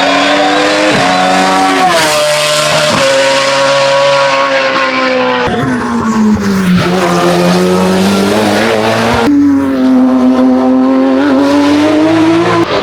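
Hillclimb race car's engine at full throttle, its note stepping sharply between gears several times, dropping low about seven seconds in and then climbing again.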